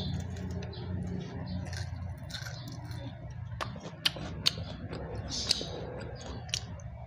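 A person chewing food close to the microphone, with wet mouth sounds and several sharp crunches or clicks in the second half.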